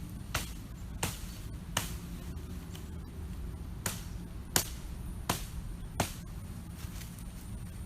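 Sharp, gentle knocks of a hatchet tapping through small kindling sticks: three blows about 0.7 s apart near the start, then four more in the same rhythm after a pause of about two seconds. A low, steady rumble runs underneath.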